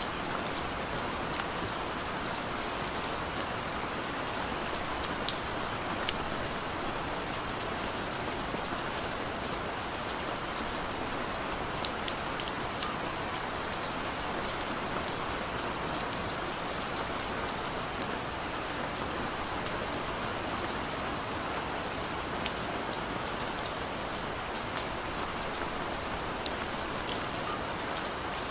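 Steady rain falling, an even hiss with many scattered drop ticks on a surface.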